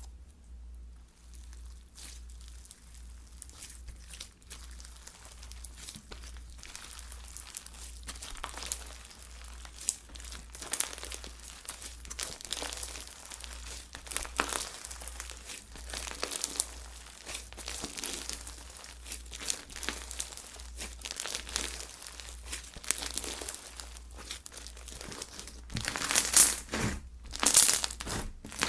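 Slime being squeezed and stretched by hand, with a constant crinkling crackle of many small pops that grows busier and loudest near the end.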